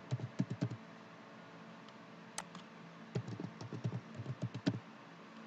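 Typing on a computer keyboard while entering a password: a quick run of keystrokes at the start and another about three seconds in. A single sharper click comes between them.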